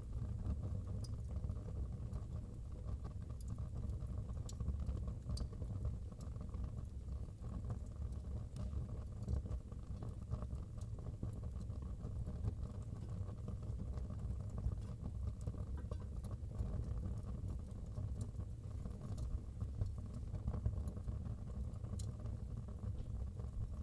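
Wood fire burning in a fireplace: a steady low rumble with scattered sharp crackles and pops, a second or so apart.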